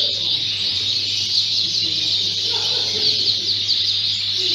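Many Fife canaries singing at once in show cages: a dense, continuous chorus of rapid high twittering and trills.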